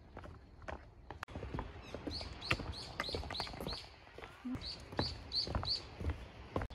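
Small birds chirping: short, high, falling chirps repeated two or three times a second from about two seconds in. Beneath them, footsteps knock on a wooden boardwalk.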